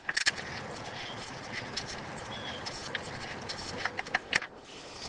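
Irregular metallic clicks and clinks of a wrench working the brake master cylinder's 15 mm mounting nuts, over a steady background hiss.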